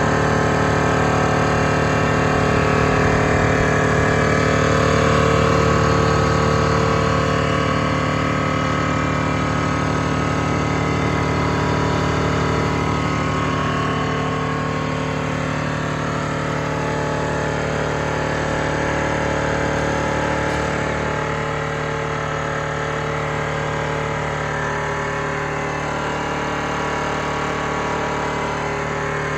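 Compressor running steadily: a continuous mechanical hum made of several steady tones, without breaks, easing a little in level after about six seconds.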